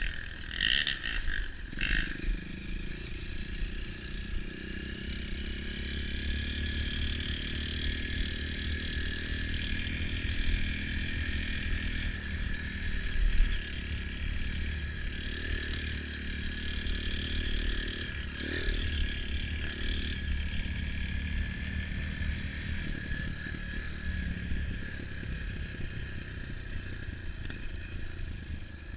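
Off-road trail motorcycle engine running steadily, with a few sharp knocks near the start and one about 13 seconds in.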